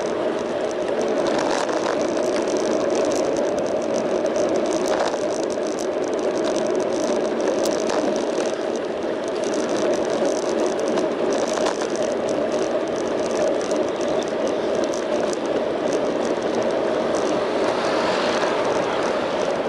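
Bicycle riding along a street, picked up by a bike-mounted action camera: steady rolling noise with constant small rattles and clicks.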